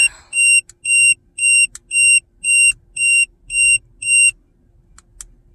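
Zmoon tire pressure monitor display unit beeping an alarm: short high-pitched beeps, about two a second, that stop about four seconds in. A few faint clicks follow near the end.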